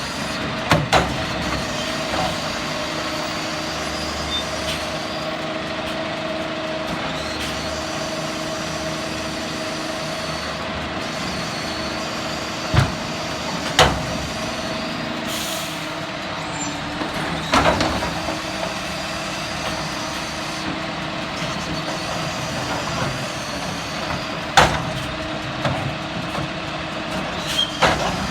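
Garbage truck running steadily, with about six sharp clanks and bangs spread through and a brief hiss of air about midway.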